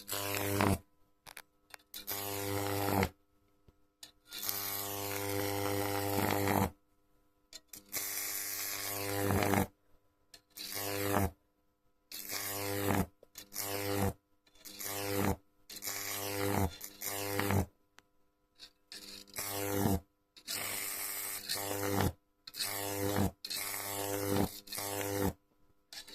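Microwave oven transformer switched on and off about fifteen times, each burst half a second to a couple of seconds long: a hard mains buzz with a crackle over it, from high-voltage arcing.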